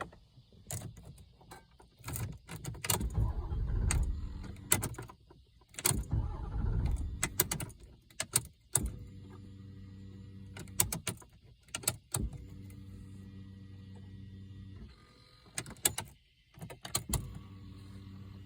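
Chrysler 300 being cranked without starting: its starter motor whirs in several attempts of a few seconds each, broken by sharp clicks, and the engine never catches.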